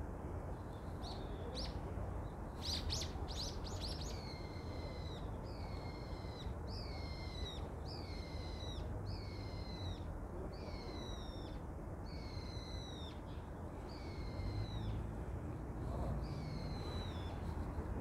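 A songbird singing: a quick run of high chirps, then one falling whistled note repeated about a dozen times, a little more than once a second, over a low steady rumble of background noise.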